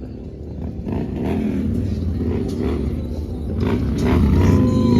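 Motor vehicle engine running with a steady low drone, getting louder about four seconds in, with wavering gliding tones over it.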